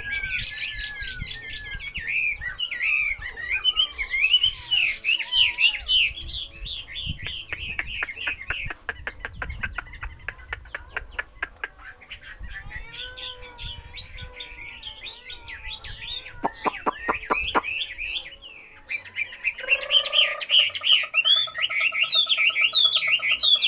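A caged songbird singing a long, varied song of quick gliding whistles. It includes a fast clicking trill in the middle and a buzzy, rippling phrase near the end.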